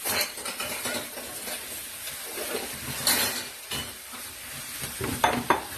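Kimchi sizzling as it fries in pork fat in a pan and is stirred with a utensil, with a louder swish about three seconds in and a few sharp clatters of utensil on pan near the end.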